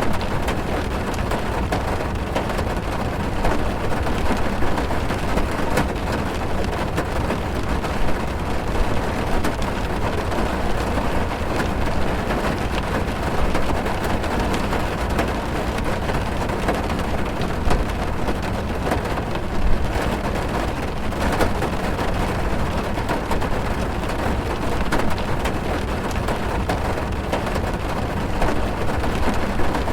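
Heavy rain drumming on a car's roof and windows, heard from inside the cabin: a steady, dense patter with scattered sharper drop ticks.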